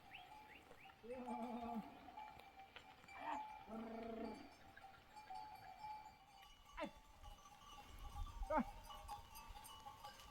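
Sheep bleating: two drawn-out bleats, about a second and about four seconds in. Two short calls that fall quickly in pitch follow later.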